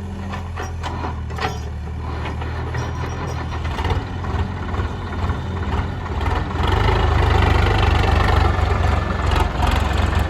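Heavy diesel engine running, with a few sharp knocks in the first second or two. It grows louder about six and a half seconds in, as if taking load.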